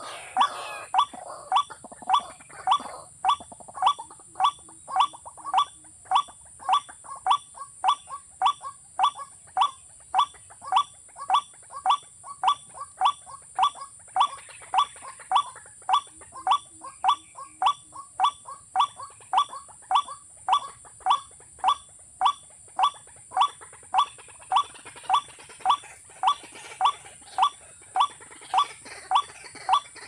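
A bird's short call, repeated very steadily about twice a second without a break.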